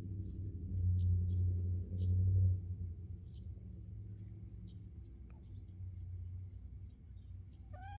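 Birds chirping in short, high, scattered calls over a low steady hum, with one short rising call at the very end.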